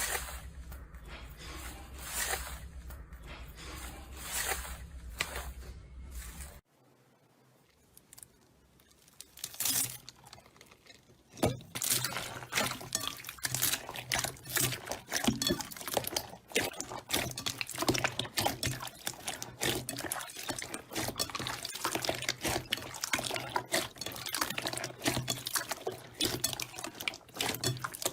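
Slime being squeezed and worked by hand: a run of wet, sticky clicks and pops. After about six seconds it drops almost to silence for about five seconds, then comes back as dense crackling.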